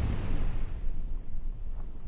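Ocean surf: a wave washing in, its hiss fading after about the first second, with wind rumbling on the microphone.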